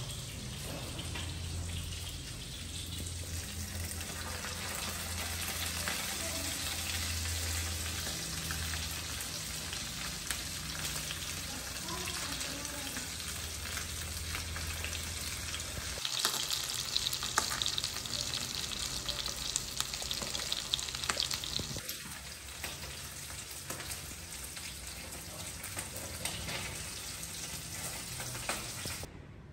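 Food frying in hot oil in a frying pan on a gas stove: a steady sizzle with fine crackling. The sizzle gets louder and crackles more for several seconds past the middle.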